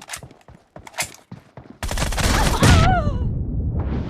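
Video game gunfire in a team-match shooter: a few single shots, then about two seconds in a loud, sustained burst of rapid fire that tails off near the end.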